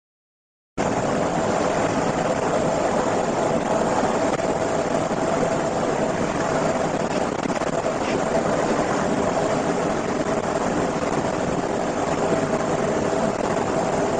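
Steady engine noise with a constant hum, starting abruptly about a second in and running on without change.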